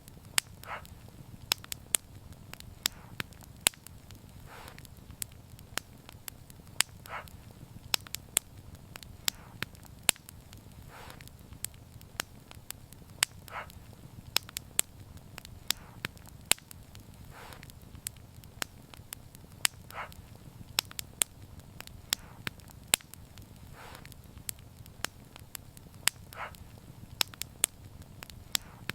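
Wood fire crackling: sharp pops and snaps at irregular intervals over a steady low rumble of flames, with a soft hissing puff every two to three seconds.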